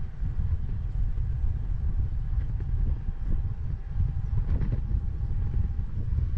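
Rumbling wind noise on a bike-mounted action camera's microphone while cycling, with a faint steady high tone for a few seconds in the middle.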